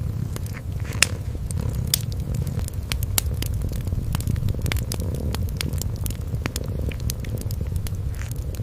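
Kitten purring in a continuous low rumble, with the crackle of a wood fire: scattered sharp pops and snaps throughout.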